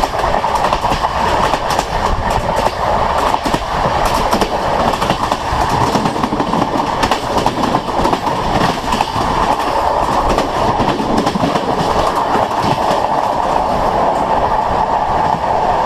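A train running at speed, its wheels clattering over rail joints: a steady rolling noise broken by many sharp clicks.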